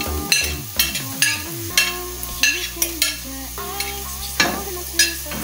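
Grated carrot sizzling in hot oil with onion and garlic in a pot, with spoon strokes scraping and stirring about twice a second.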